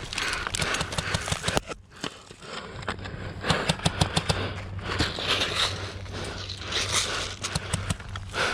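Airsoft guns firing: sharp clicks and pops scattered through, with a rapid run of shots about three and a half seconds in.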